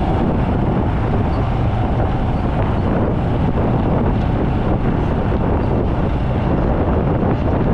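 Steady rain falling, under a constant low rumble of wind on the microphone.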